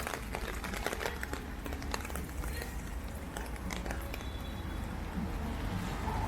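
Heavy rain: scattered drops tapping close by as sharp, irregular clicks over a steady low rumble.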